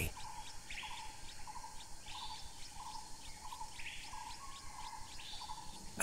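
Birds calling: a short low note repeated about twice a second, with higher chirps now and then.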